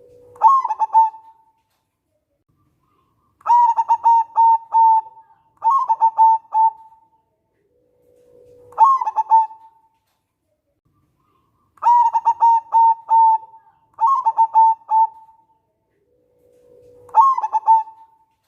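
Zebra dove (perkutut) cooing repeatedly. Each phrase is a short low note followed by a quick run of higher rolling coos, about seven phrases spaced a few seconds apart.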